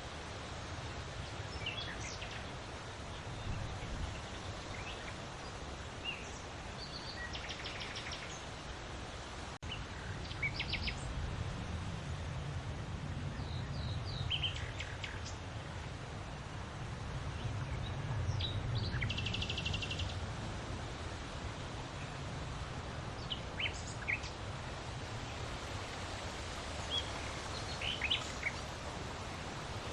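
Steady wind noise with a low rumble that swells and eases, while small birds chirp and give a few short, rapid trills over it.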